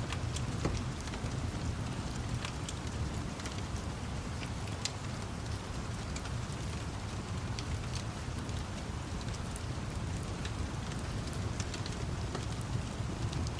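Steady rain mixed with a wood fire crackling: scattered sharp pops over a continuous hiss and a low, even rumble.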